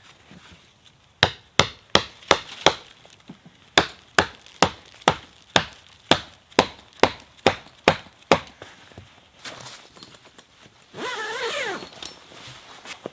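Wood being chopped: a quick run of sharp strikes, about two or three a second, with a brief pause after the first five. Near the end comes a short rasping sound.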